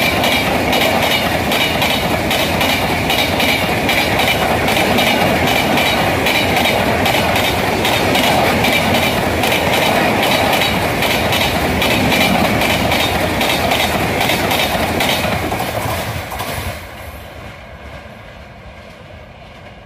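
LHB passenger coaches of an express train passing close by at high speed: a steady rush of wheel and rail noise with a rapid, regular clickety-clack of wheels over the rail joints. A little over three-quarters of the way through, the last coach passes and the sound falls away.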